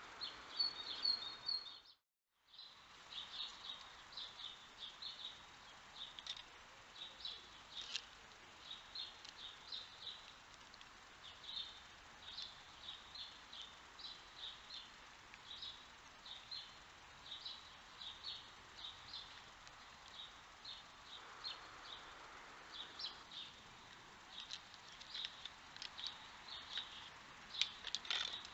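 Small birds chirping, a steady run of short high calls several times a second over a faint outdoor background hiss. The sound cuts out completely for a moment about two seconds in, then the chirping carries on.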